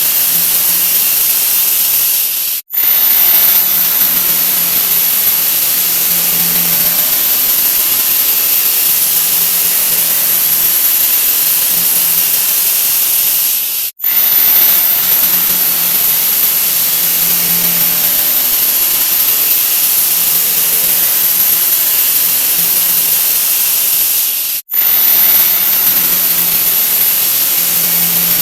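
A 'wah wah' sound effect sped up so far that it has turned into a loud, steady, high-pitched hiss with a thin whistle on top. It cuts out for an instant three times: a few seconds in, about halfway, and near the end.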